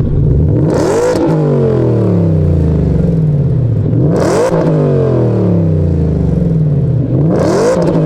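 Ford Raptor R's supercharged 5.2-litre V8 revved three times. Each rev climbs quickly, carries a burst of hiss at its peak, and then falls back slowly.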